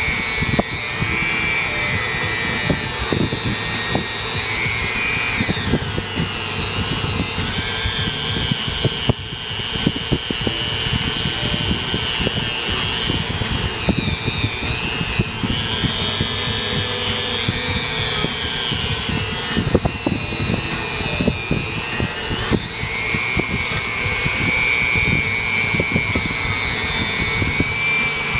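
Dremel rotary tool with a wire wheel running at high speed, its whine sagging and recovering in pitch as it is loaded, over a continuous scratchy crackle of the wire bristles. It is scouring carbon deposits from the combustion chambers and around the valves of a cylinder head.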